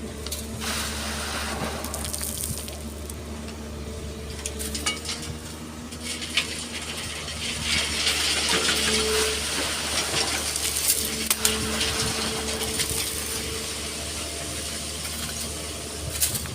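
Excavator engine running steadily with a held hydraulic whine, while wet sand and stones pour and rattle with sharp clinks; the rush of pouring material is loudest from about eight to twelve seconds in.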